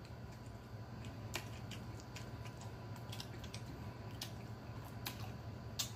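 Man chewing a mouthful of Big Mac with his mouth closed: scattered soft clicks and wet smacks of the mouth, over a faint low hum.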